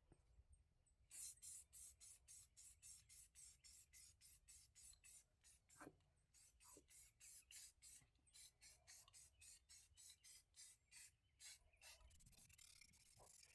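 Faint hiss of primer being sprayed in quick short bursts, about three a second.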